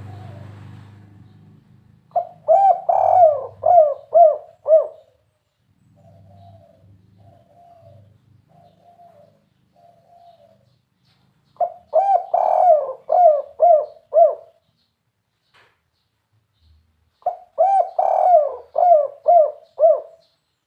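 Spotted dove (tekukur) cooing its 'kuk 3' song: three phrases of six or seven quick coo notes each, with softer coos between the first and second phrase. A brief low rumble comes at the very start.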